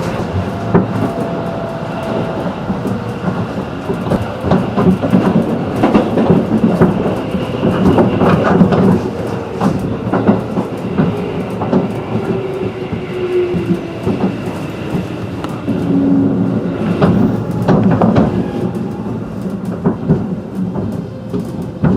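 Running noise of a JR 211 series electric multiple unit heard from inside the car: a steady rumble of wheels on rail with frequent clacks over rail joints, and faint whining tones from the drive that slide slightly in pitch. It eases off a little near the end.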